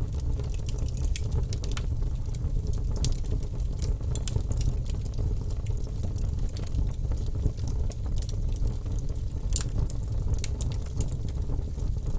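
Fire burning in a fireplace, crackling: irregular sharp pops over a steady low rumble of the flames, with one louder pop near the end.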